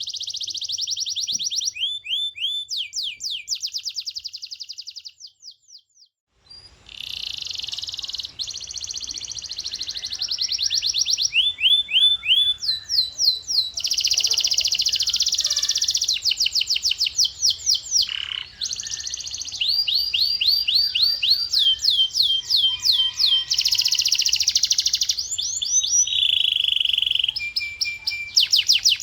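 Male domestic canary singing: fast rolling trills of repeated high notes, each tour held for a second or two before switching to the next, with a short break about five seconds in.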